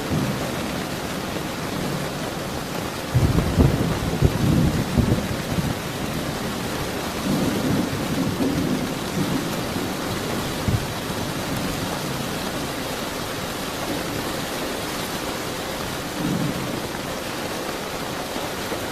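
Steady rain falling with rolls of thunder: the loudest rumble comes about three seconds in and lasts a couple of seconds, with weaker rumbles a few seconds later and again near the end.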